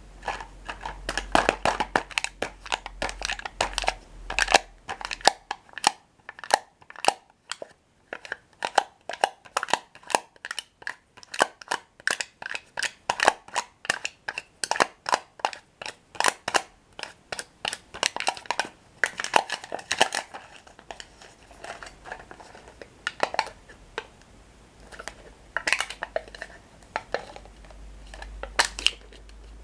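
Close-miked chewing of crunchy toasted breadsticks: a long run of crisp, sharp crunches, a few every second.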